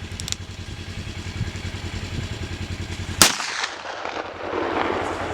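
A single loud handgun shot about three seconds in, with its report ringing and echoing away afterwards.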